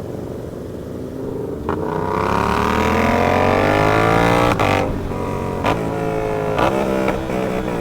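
Motorcycle engine, the rider's Yamaha R7, accelerating hard. The revs rise for about three seconds in one gear, then climb again in quicker steps through three or four fast upshifts, each with a short sharp break in the sound.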